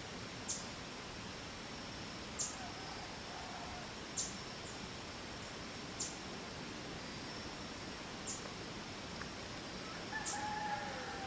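Outdoor birdsong: a short high chirp repeats about every two seconds over a steady hiss, and a rooster crows in the distance, once briefly near the start and again near the end with a held note that falls away.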